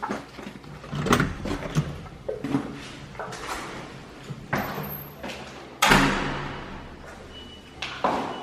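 A series of separate knocks and thuds, each followed by a short ringing fade; the loudest comes about six seconds in and fades out slowly.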